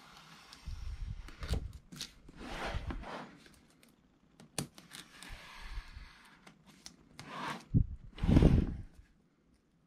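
Hands handling packaging and the keyboard: irregular rustling of paper or plastic with scattered clicks and knocks, and a louder rustle near the end.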